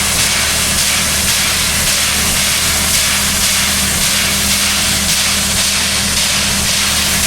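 Steam locomotive standing still and venting steam: a loud, steady hiss over a low, steady hum.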